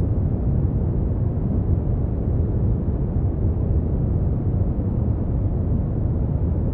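Brown noise: a steady, deep rumbling hiss, heaviest in the bass and with almost nothing in the high end, unchanging throughout.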